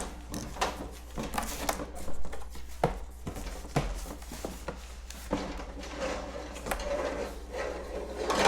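Bird-cage parts and packing being taken out of a cardboard box: scattered knocks, clatters, rubbing and rustling, with a few sharper knocks near the end.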